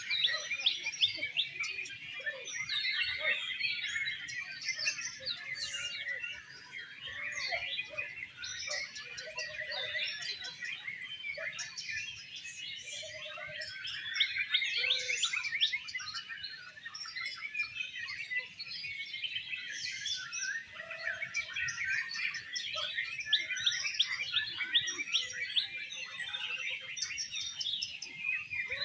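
Several oriental magpie-robins (kacer) singing at once, a dense, unbroken tangle of quick chirps, trills and whistled phrases.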